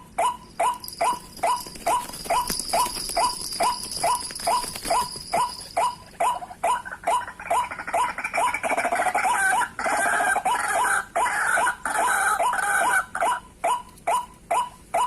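A bird calling in a fast, regular series of short, downward-sliding notes, about three a second, without a break.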